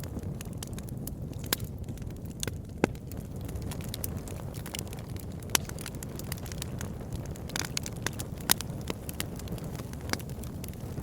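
Wood campfire burning: a steady low rumble of the flames with irregular sharp crackles and pops from the burning wood, a few louder than the rest.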